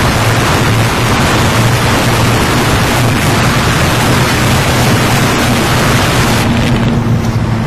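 Motorcycle engine running steadily while being ridden at speed, largely buried under wind rushing over the microphone; the wind hiss eases about six and a half seconds in.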